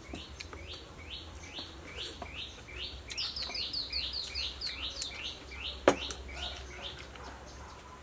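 A bird calling a long run of short, repeated chirps, about two to four a second, coming faster and louder in the middle. A single sharp click about six seconds in.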